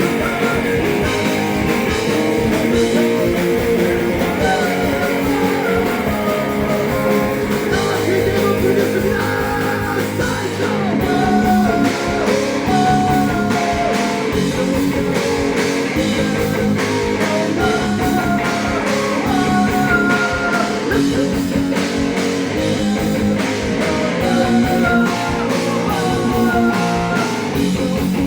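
A rock band playing, guitar to the fore, with singing.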